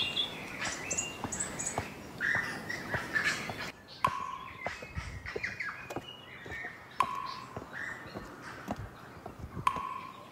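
Small birds chirping and calling in short repeated notes at several pitches, with a few sharp clicks among them.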